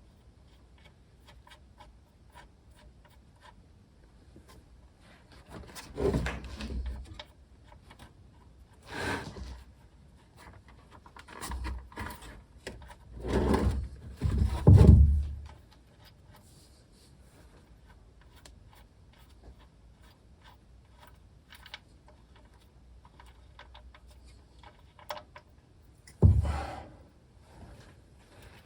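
Intermittent handling noises: a few short bursts of rubbing and knocks with small clicks between, the loudest knock about halfway through, and long quiet stretches in between.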